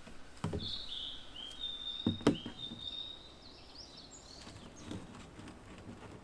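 A songbird singing a run of high notes, one of them held longer and steady. A knock comes about half a second in, and a louder double knock about two seconds in.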